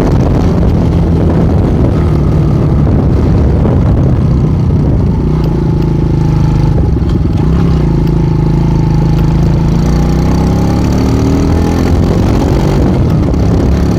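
Small enduro motorcycle's engine running while riding, its pitch rising and falling with the throttle.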